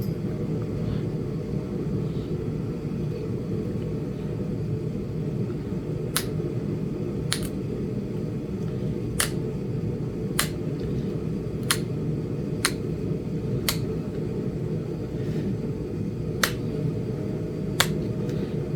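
Flintknapping on a Flint Ridge chert point: sharp, short clicks as the stone is worked, about nine of them at uneven intervals starting about six seconds in, over a steady low rumble.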